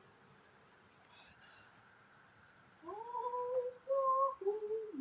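A voice humming a slow tune in long, held notes that step up and down in pitch, starting about three seconds in. Faint short bird chirps sound high above it.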